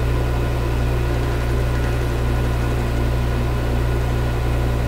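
Metal lathe running, its motor giving a steady low hum with no distinct cutting sounds.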